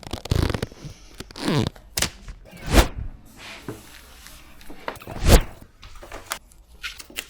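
Vinyl wrap film being handled at the start of a bonnet wrap: several separate rustling swishes, a second or more apart.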